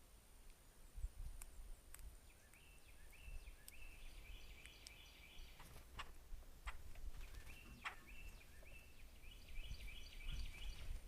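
Wild songbirds singing outdoors, series of short repeated whistled notes, with a few sharp taps or clicks in the middle and a low wind rumble.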